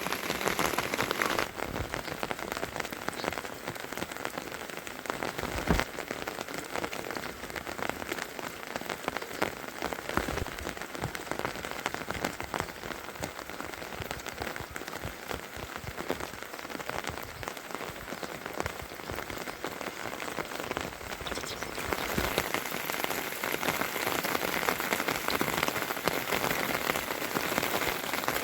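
Heavy rain falling, a dense patter of drops with a few sharper single strikes; the rain grows louder about three-quarters of the way through.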